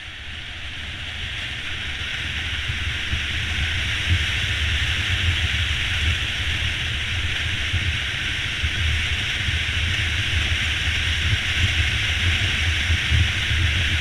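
Steady wind and road hiss over the low drone of a Honda CB500X parallel-twin motorcycle cruising at about 35–45 mph.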